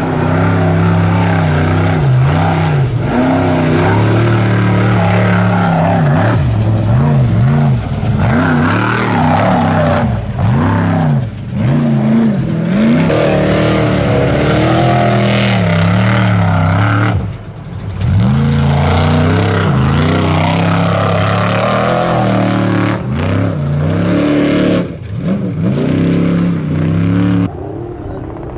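Trophy truck race engine revving hard and easing off as it works through rough terrain, its pitch swinging up and down. The sound drops briefly several times, near the middle and again later, where the throttle is lifted.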